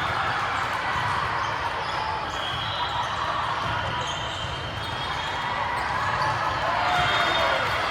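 Gymnasium noise during a volleyball match: steady echoing crowd chatter, with short squeaks from sneakers on the court and low thumps of play.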